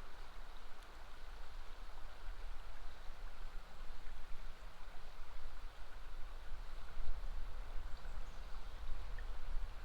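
River water flowing steadily, with a low, unsteady rumble underneath.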